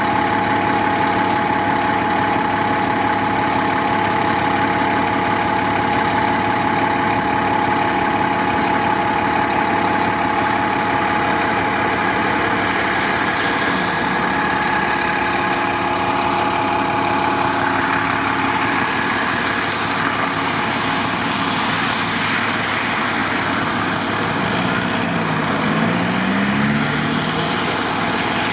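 Large diesel fire truck engine running steadily, a constant hum with several held tones.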